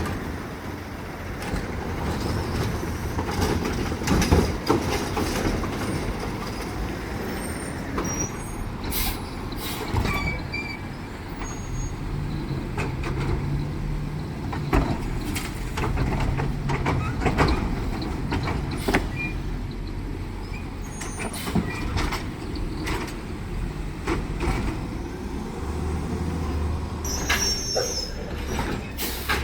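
Automated side-loader garbage truck at work: its diesel engine runs steadily, with repeated metallic clanks and bangs as carts are gripped and dumped. The engine rises to a steadier, higher note for several seconds in the middle, and there is a hiss of air brakes.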